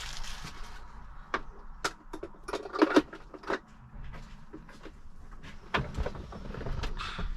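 Packaging being handled as a coffee maker is unwrapped: scattered knocks and clicks, a cluster of them about three seconds in, over a light rustle.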